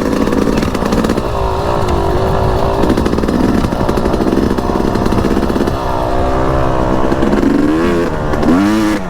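2018 Yamaha YZ250X two-stroke dirt bike engine running under load on a trail ride, the pitch rising and falling with the throttle, with quick revs up and down near the end.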